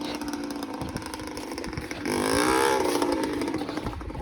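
1997 Kawasaki KX60's small two-stroke single engine running, revving up about two seconds in, then easing off and fading.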